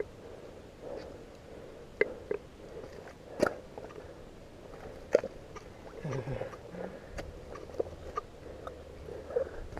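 Scattered sharp clicks, knocks and squelches, strongest about two, three and a half and five seconds in, of people handling a bike stuck in thick mud.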